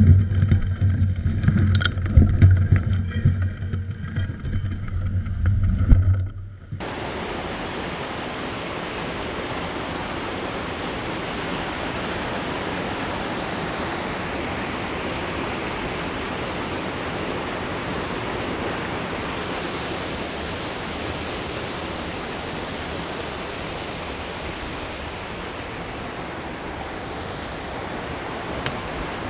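Water pouring over a river check dam with a fish ladder: a steady, even rushing. For the first six seconds a loud low rumble is heard instead, and it cuts off abruptly.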